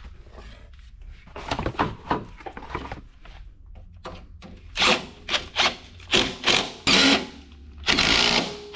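Mechanic's tool work in the engine bay: a run of short, loud clattering bursts, then a longer loud burst of mechanical noise near the end.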